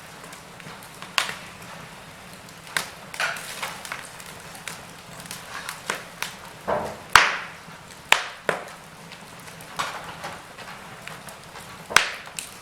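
Wood fire crackling in a fireplace: a steady soft hiss with irregular sharp pops and snaps, the loudest a little past halfway.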